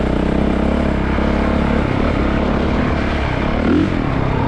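2022 Honda CRF450RX's single-cylinder four-stroke engine running under way on a trail ride, its note shifting with the throttle and rising briefly near the end.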